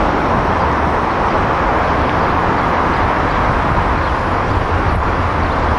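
Steady rumbling rush of an approaching Amtrak electric passenger train running on the track beside the platform, with no horn or distinct clatter.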